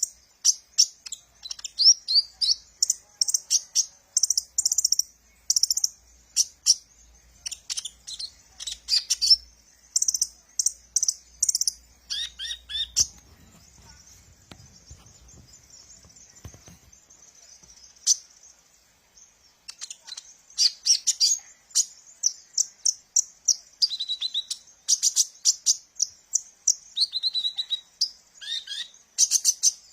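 A sunbird, the 'kolibri ninja' of Indonesian bird-keepers, singing: rapid runs of thin, very high chirps and twitters. The song thins out for a few seconds in the middle to a faint high trill, then picks up again.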